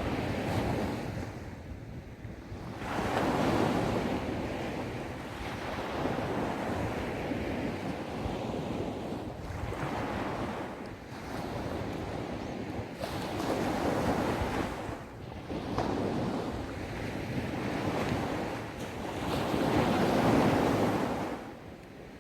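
Small sea waves breaking and washing up a sandy beach, swelling and fading every few seconds, with wind rumbling on the microphone.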